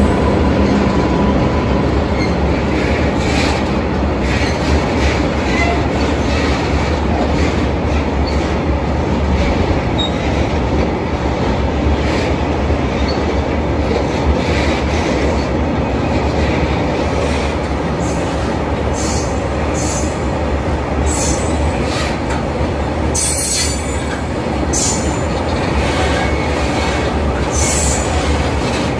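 Train running past: a steady rumble of wheels on rail. In the second half come repeated sharp clicks of wheels over rail joints.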